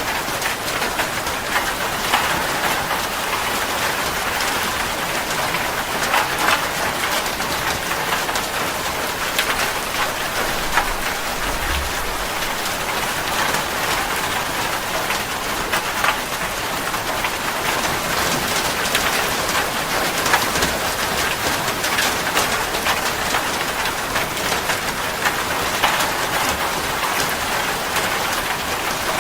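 Steady, heavy rainfall: a dense hiss of rain with many individual drops pattering on a surface.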